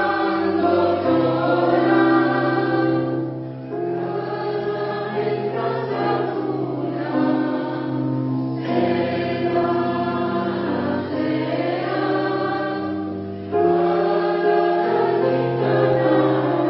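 Mixed polyphonic choir singing a Christmas piece, several voice parts holding chords that change every second or two.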